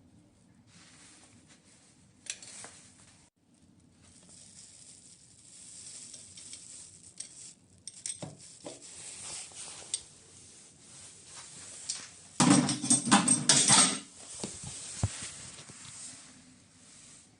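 Metal faucet parts being handled: scattered clinks and scraping, then a louder burst of rattling clatter that lasts about a second and a half, around twelve seconds in.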